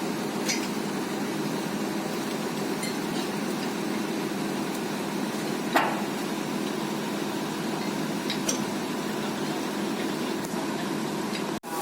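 Heavy diesel machinery running steadily, with three sharp metal clanks: one right at the start, the loudest about six seconds in, and another a few seconds later.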